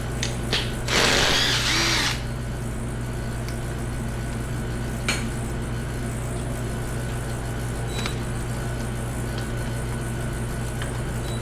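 A power tool runs in one loud burst of about a second, near the start, against a steady low hum. A few light clicks of tools or parts follow.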